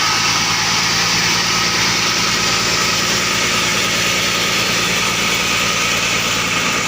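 Two-stroke chainsaw engine running steadily, with an even, fast pulse and a constant pitch throughout.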